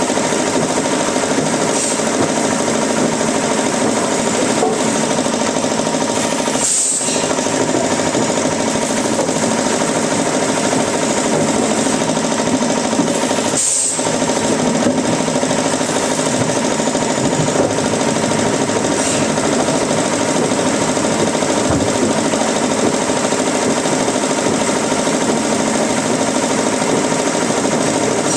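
Woodworking machinery running steadily, a dense even mechanical noise with two brief dips about seven seconds apart.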